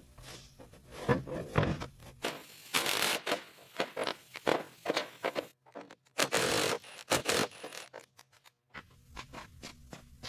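Irregular scraping and rasping strokes on heavily rusted metal, with short pauses between runs.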